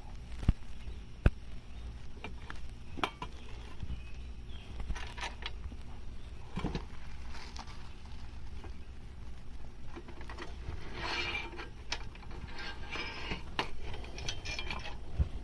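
Scattered metallic clicks, clinks and knocks of aluminum and steel parts and bolts being handled while a chainsaw mill is put together by hand, with a short stretch of denser rattling about two-thirds of the way through.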